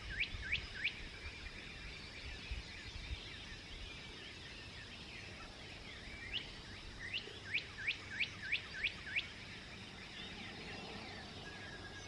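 Dawn chorus of songbirds twittering throughout. One bird sings runs of quick, sharply down-slurred notes, about three a second, at the start and again around the middle, and a thin held whistle comes in near the end.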